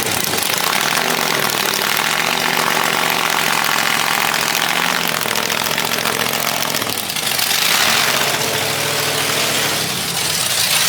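Car engine idling loud and steady, with a surge in engine noise about seven seconds in.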